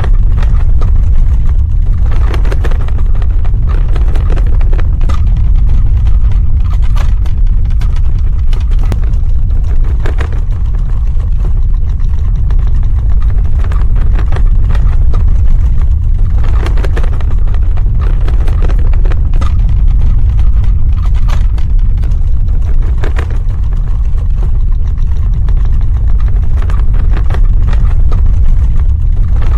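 Earthquake sound effect: a loud, deep, continuous rumble with irregular crackling and rattling on top.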